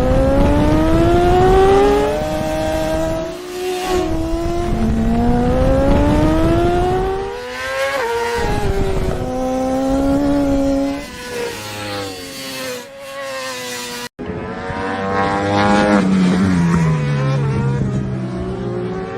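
Racing motorcycle engines accelerating hard through the gears, the pitch climbing and dropping back at each upshift, over several runs. The sound cuts off abruptly about 14 seconds in, then picks up again, with a falling pitch near the end.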